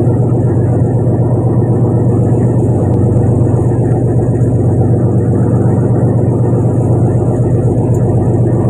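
Fishing boat's engine running steadily, a loud low drone with no change in pitch.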